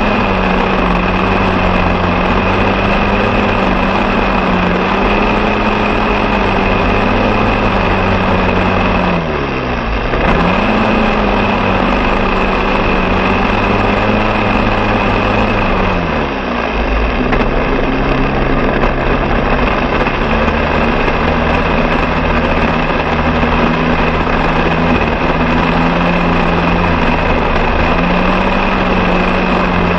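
Lawn mower engine running steadily at high speed. Its pitch dips briefly and recovers twice, once about a third of the way in and again past the middle, as the engine bogs under load.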